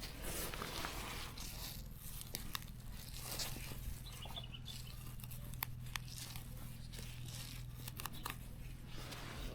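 Plants handled by hand: quiet rustling and tearing with a scattering of small snaps, over a faint steady low hum.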